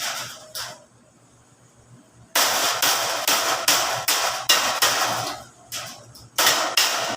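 Hammer blows on plain sheet metal being bent: two strikes at the start, a pause, then a quick run of about three strikes a second.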